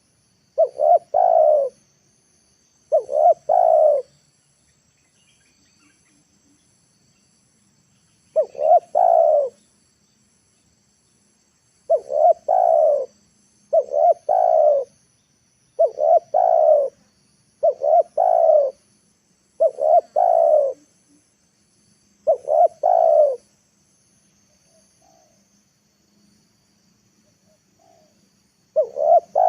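Spotted dove cooing: about a dozen short, low coo phrases, each about a second long and made of two or three notes, repeated in runs with pauses of up to four seconds between them.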